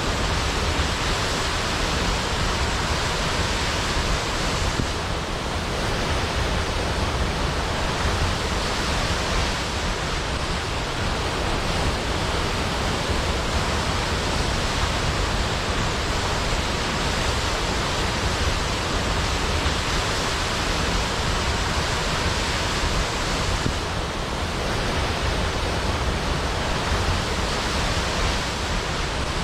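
Large waterfall pouring steadily down a cliff into a pool, a dense, even rush of water with strong low rumble.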